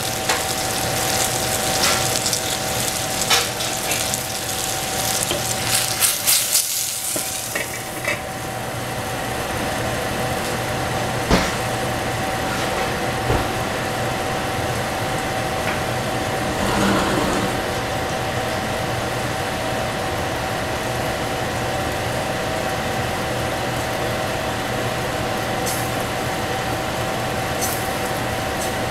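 Oyster mushrooms and egg frying in a stainless steel saucepan: a crackling sizzle with small pops for about the first eight seconds. The sizzle then fades, leaving a steady hum with a thin tone and a single sharp click a few seconds later.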